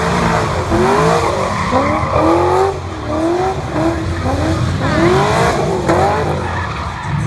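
Car doing a burnout: tires screeching in wavering, overlapping squeals over the steady drone of the engine held at high revs.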